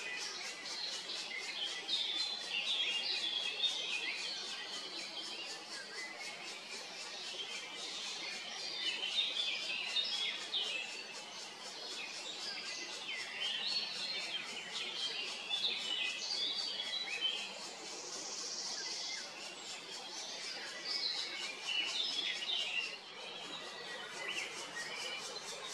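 Birds chirping and singing, many short calls overlapping throughout.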